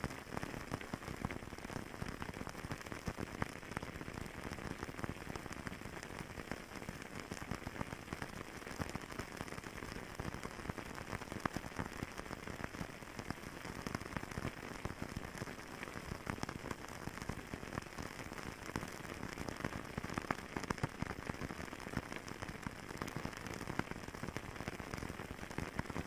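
Fireplace burning steadily, a continuous hiss with many small crackles and pops throughout.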